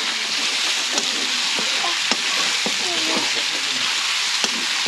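Pork and potato curry sizzling in a metal wok, stirred with a long wooden spatula; the steady frying hiss carries a few sharp clicks of the spatula against the pan.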